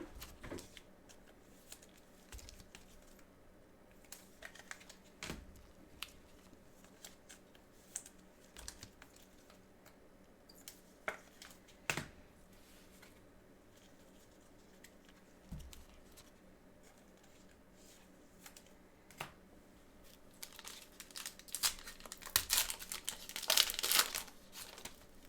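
Trading-card pack wrapper being torn open and crinkled near the end, after a stretch of scattered light clicks and taps from cards and packs being handled.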